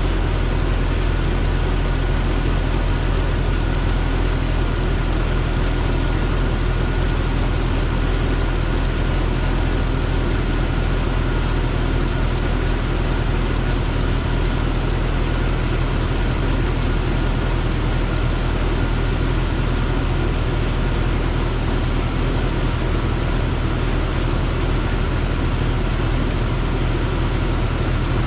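1998 Jeep Cherokee XJ's 4.0-litre inline-six idling steadily with its new water pump, run to work the air out of the cooling system.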